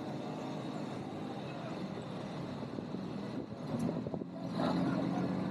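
ATV engine running while being ridden off-road. It eases off briefly about three and a half seconds in, then picks up again, louder.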